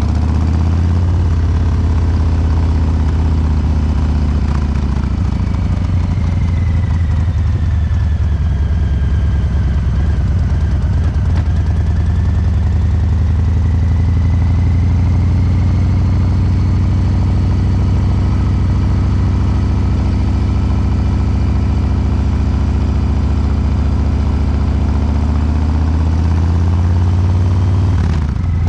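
Harley-Davidson Breakout 114's Milwaukee-Eight 114 V-twin running at a steady speed through COBRA Neighbor Hater slip-on mufflers, its fuel injection tuned for a loping three-beat rhythm.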